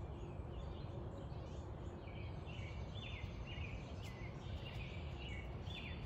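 Outdoor ambience of songbirds chirping, with a run of short, quickly falling notes from about two seconds in, over a steady low rumble.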